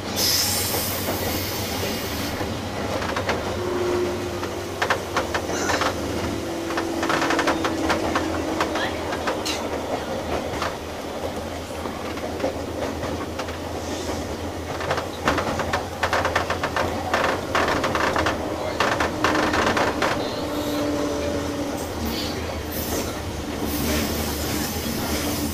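Running sound inside a JR East 201 series electric train: a steady rumble with the wheels clicking over rail joints in irregular runs. A faint whine comes in twice, about a sixth of the way in and again past the middle.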